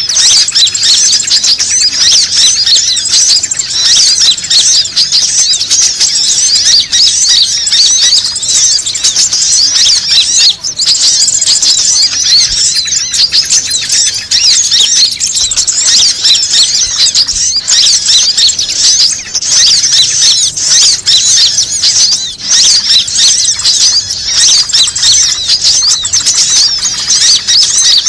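Dense, unbroken chorus of many small birds chirping and twittering rapidly and loudly all at once: a bird-lure (pikat) recording made to draw in other birds.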